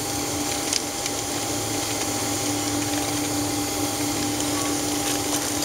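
Steady cabin noise of a Boeing 767-300 taxiing after landing: an even rush of air with a constant hum, from the idling engines and the cabin air system. A few faint clicks sound over it.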